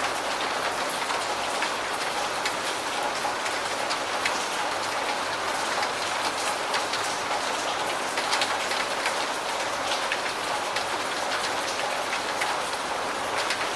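Steady rain: an even hiss of falling rain with many single drops tapping clearly through it.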